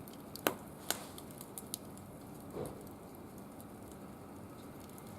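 Firewood burning in a barbecue grill, crackling with a few sharp pops in the first two seconds over a faint steady hiss.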